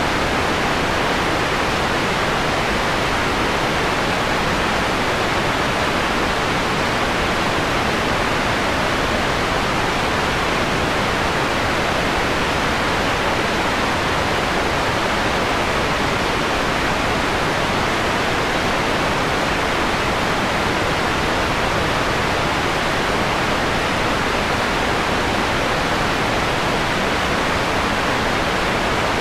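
Steady electronically generated white noise, filtered so its highest frequencies are softened, giving an even mellow hiss.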